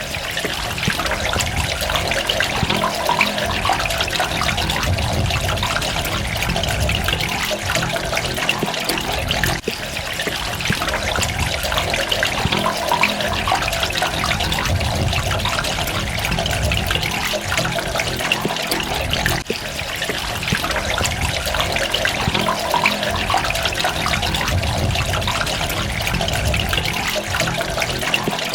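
Steady running, trickling water, with a brief dip in level about every ten seconds.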